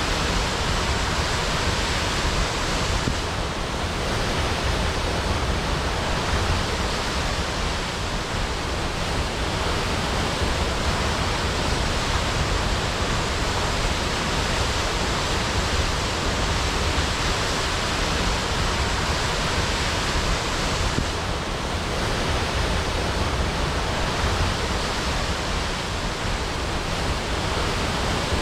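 Waterfall crashing: a steady, even rush of falling water.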